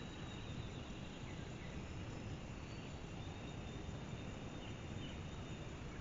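Quiet outdoor ambience: a steady hiss with faint, thin, high calls from insects or birds.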